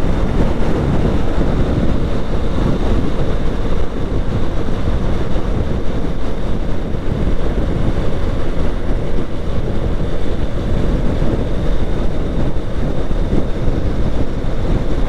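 Steady rush of wind over a GoPro's microphone on a moving motorcycle, heaviest in the low end, with the bike's running and road noise mixed in.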